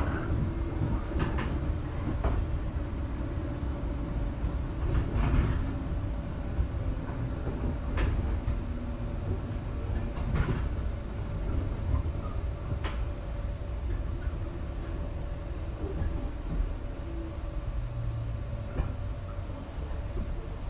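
Running sound inside a JR Shikoku 121 series electric train car: a steady rumble of wheels on rail, with a faint steady tone and occasional sharp clicks as the wheels cross rail joints.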